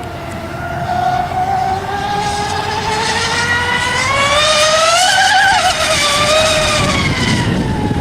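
Radio-controlled Mystic racing catamaran (S-cat) running at speed, its motor note climbing to a peak about five seconds in and then falling away as the boat goes by.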